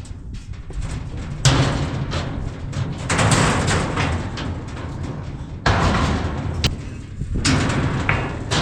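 Metal bangs and clatter as the hinged floor sections of a truck's stock crate are flipped up and shifted, with a sharp bang about a second and a half in and another just before six seconds.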